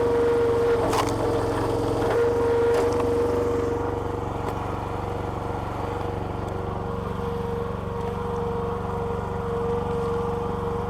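Petrol engine of a homemade hydraulic log splitter running steadily, with a constant high whine. In the first few seconds it is a little louder and a few sharp cracks of splitting wood come through; then it settles to an even run.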